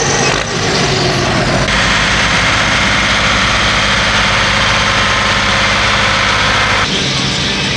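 Pulling tractor's engine running steadily with a deep rumble. The sound jumps abruptly about two seconds in and again near the end, as from a change of shot.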